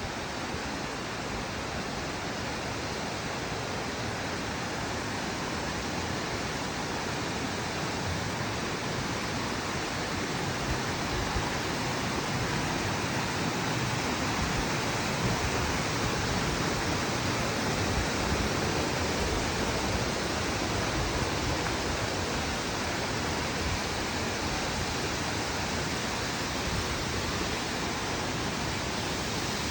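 Sakura-taki waterfall, about 25 m high and 15 m wide, pouring in a steady, unbroken rush of water. It is running full, which the uploader puts down to recent rain.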